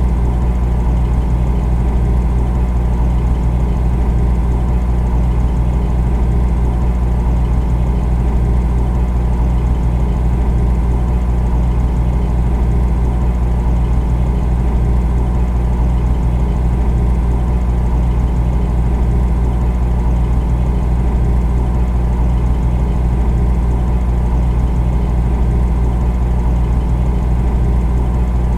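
Refrigerator compressor running: a loud, steady low hum with a few constant tones, unchanging throughout.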